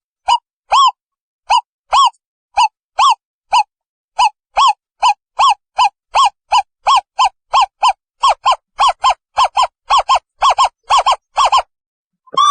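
An owl calling in a series of short, arched hoots that speed up from about two to about four a second, then stop shortly before the end.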